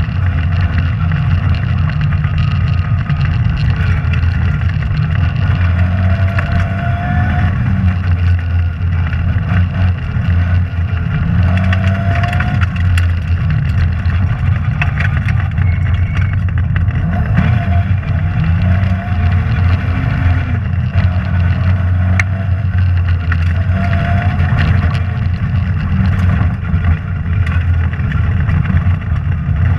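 Rally car engine at speed, revving up and changing gear again and again, over a loud steady low drone. Scattered sharp ticks and knocks run through it.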